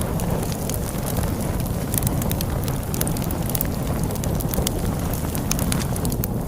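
Log fire crackling, with many sharp pops and snaps scattered irregularly, over a steady low rush of storm wind.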